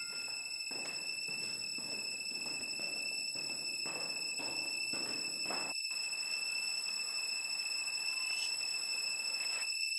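A steady high-pitched ringing tone. Soft regular thuds, about two a second, sound under it and stop about six seconds in, leaving the tone over a low hiss.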